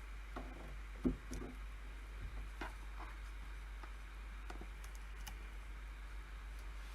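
A handful of isolated, sparse clicks from computer work at a desk, a lull between runs of keyboard typing, the sharpest about a second in. A steady low hum runs underneath.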